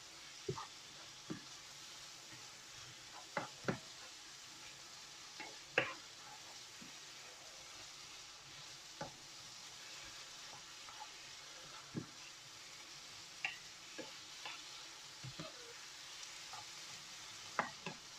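Onion, pepper and spice curry base sizzling gently in a pan while the spices cook down, with scattered knocks and clicks of a spoon stirring against the pan.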